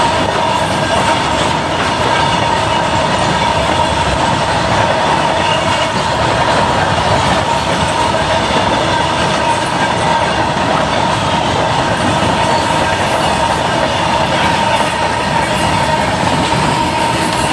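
Train rolling steadily on the rails, wheels clattering, with a steady whine held over it.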